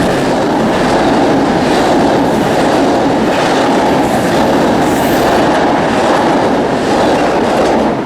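Passenger train running on the rails, a loud steady rumble with faint clicks of wheels over the rail joints.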